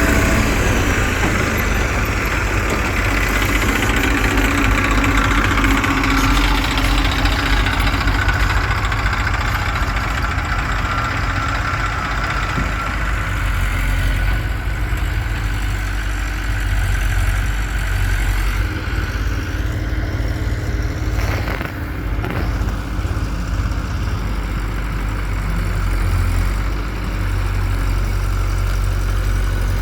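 Diesel engines of tractors and a backhoe loader running steadily near idle, with a brief dip in level about 21 seconds in.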